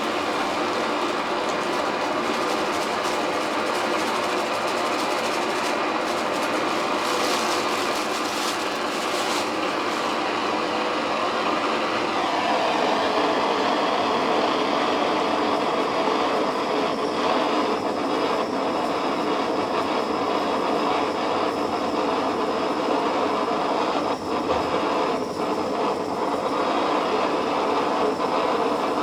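Blowtorch flame running with a steady rushing hiss, its tone shifting about twelve seconds in. Brief crackling around six to ten seconds in.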